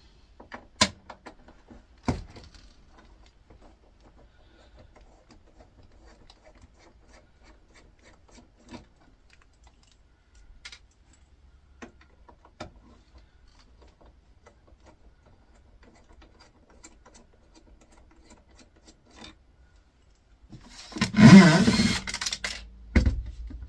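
Small metallic clicks, taps and rattles of hand tools and fittings on the air fryer's steel casing as security screws are worked at, with a couple of sharper clicks at the start. Near the end comes a louder rough scraping noise lasting about two seconds.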